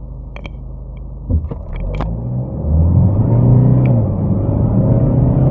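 Mercedes-Benz E-Class (W213) engine accelerating hard in Sport+ mode, heard from inside the cabin. It picks up with a thump about a second and a half in, then its note grows loud and rises in pitch as the revs climb.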